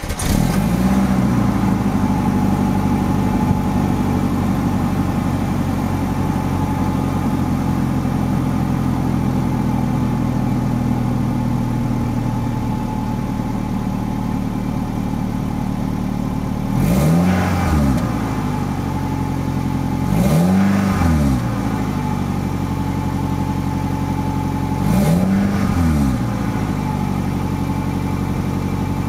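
Toyota Estima's exhaust through its stock muffler: the engine idles steadily just after starting, and the throttle is blipped three times in the second half, each rev rising in pitch and falling back to idle.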